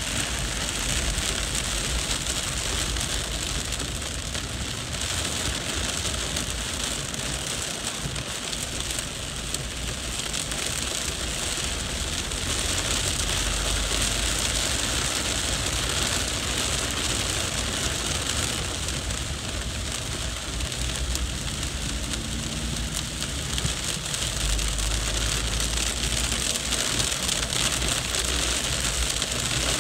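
Heavy rain pouring down onto a street, a steady dense hiss, with a low rumble underneath that swells briefly about four-fifths of the way through.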